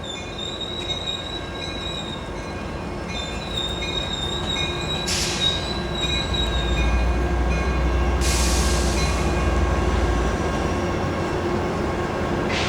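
Sounder commuter train led by an F59PHI diesel locomotive running past, with steady high-pitched wheel squeal and a deep rumble that grows louder about halfway through. Two short hisses come about 5 and 8 seconds in.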